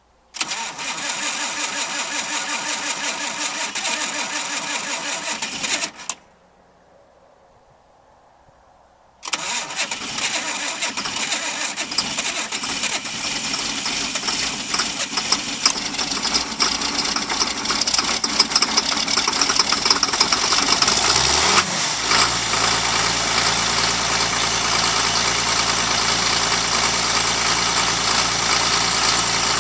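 John Deere 7800 tractor's six-cylinder diesel being cold-started below freezing: the starter cranks for about five seconds and stops, then cranks again for about twelve seconds before the engine fires and settles into a steady idle for the last several seconds. The long cranking is the hard starting of a diesel in freezing cold.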